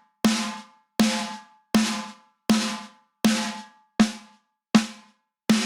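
A solo snare drum hit eight times at an even pace, about one hit every three-quarters of a second, each with a low ring and a long decaying tail. It is processed with heavy compression and added low end, with the transient designer inverted so the attack is softened and the body sustains.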